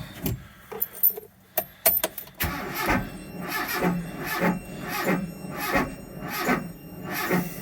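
A few clicks, then the 1987 Dodge Power Ram 50's starter cranking the engine over slowly in a repeating beat of a little under two strokes a second, without it catching. The owner suspects a weak battery.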